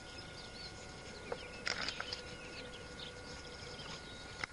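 Small birds chirping and twittering over an open field, with a few brief sharp noises, the loudest about a second and a half in.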